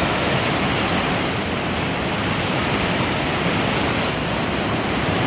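Waterfall: falling water making a loud, steady, unbroken rush with a strong hiss.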